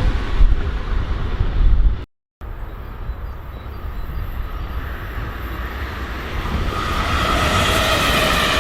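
A train rumbling past, then, after an abrupt cut, another train approaching and growing louder, with a whine of several steady high tones over its running noise near the end.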